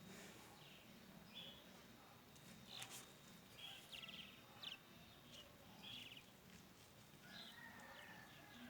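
Faint birdsong: scattered short high chirps and brief trills, with a longer whistled note near the end.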